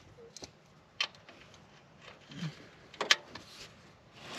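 A few light, sharp clicks and knocks of tools being handled under the car, spaced irregularly, with a soft thump in between.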